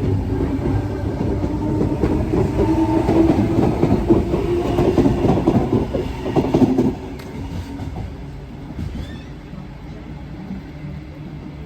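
A train running through the station, its wheels clattering over the rails. The clatter drops away sharply about seven seconds in, leaving a lower, steady hum.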